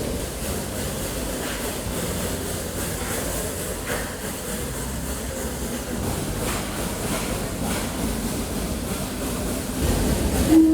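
Late-1800s logging steam train running: a steady rumble and rattle with faint, scattered clanks.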